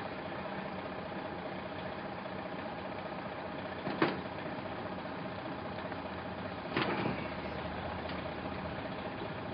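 Vehicle engine idling with a steady hum, broken by a short sharp sound about four seconds in and a longer, louder one about seven seconds in.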